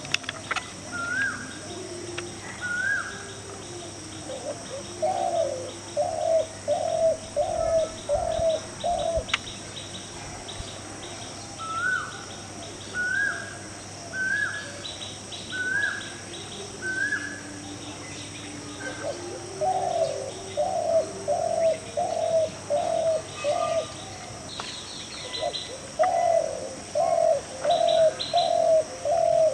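Birds calling: repeated runs of five to seven low, evenly spaced hooting notes, with runs of shorter, higher rising notes between them. A steady high-pitched hiss runs underneath.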